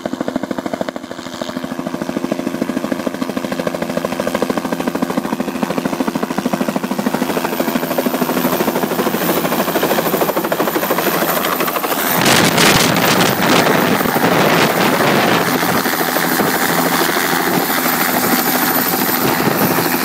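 Bell 206 helicopter's two-bladed rotor and turbine running close by as it comes in to land, the rapid blade chop growing steadily louder. About twelve seconds in, a loud rushing noise joins in and stays.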